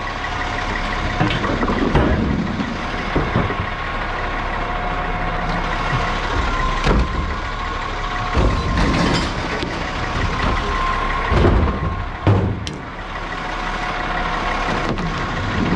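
Garbage truck's engine idling with a steady hum, broken by several sharp clanks and knocks.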